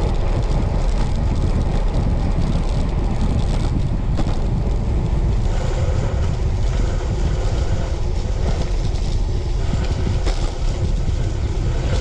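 Wind buffeting the microphone of a camera riding on a moving road bike: a steady, loud low rumble.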